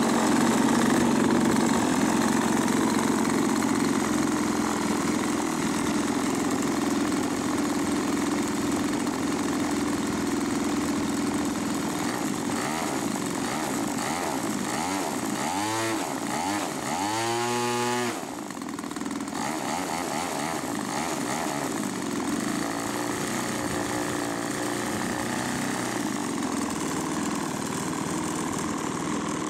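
Two-stroke chainsaw engine powering the BigLift running steadily under power. A little past the middle its pitch sweeps up and down several times for a couple of seconds. It then settles slightly quieter.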